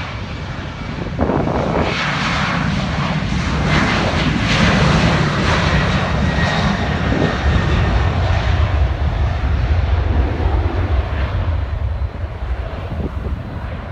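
Boeing 737-900ER's CFM56-7B turbofan engines at takeoff power: a loud, steady jet roar that swells about a second in and eases slightly near the end, with a faint steady whine over a low rumble.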